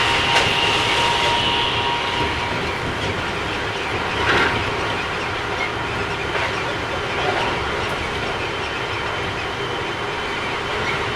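Running sound of a Keikyu 1000 series electric train with a Mitsubishi IGBT inverter: steady rolling rail noise with a few clicks of wheels over rail joints, the loudest about four seconds in, and a faint high whine that fades out early. The uploader finds this trainset a little noisier than others.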